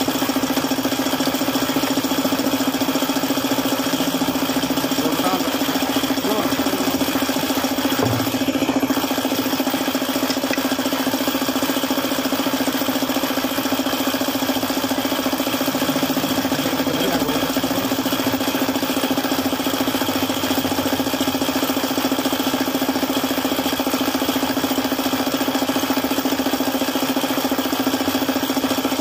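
Suzuki F6A three-cylinder engine running steadily at idle with a knock, which is blamed on a failed oil pump.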